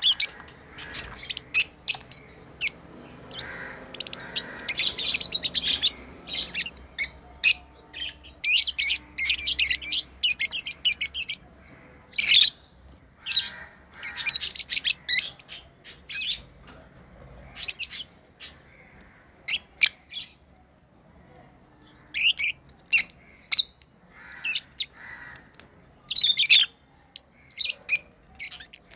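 Pet lovebirds chirping: many short, sharp, high-pitched calls coming in quick clusters, with a short lull about two-thirds of the way through.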